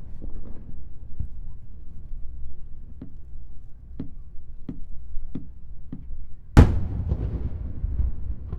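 Fireworks bursting over a low continuous rumble: a string of sharp cracks about a second apart, then one loud boom about six and a half seconds in, trailing off in a long rolling echo.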